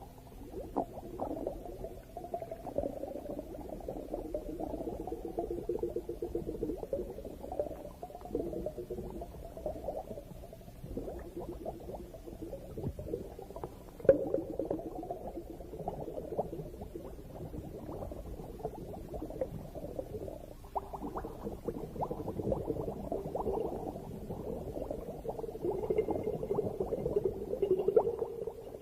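Muffled underwater bubbling and gurgling, with one sharp click about halfway through.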